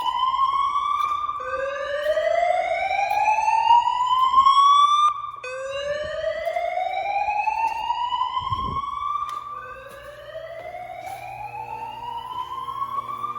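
Evacuation tone of a Notifier AM-2020 fire alarm system played through parking-garage speakers: a loud sweep rising in pitch, repeating about every four seconds, with slightly delayed copies from other speakers overlapping in the garage.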